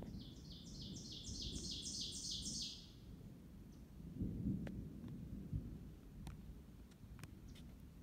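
A songbird singing a fast series of about a dozen repeated high notes, about four or five a second, growing louder and stopping about three seconds in. A low rumbling noise on the microphone runs underneath and is loudest about four seconds in.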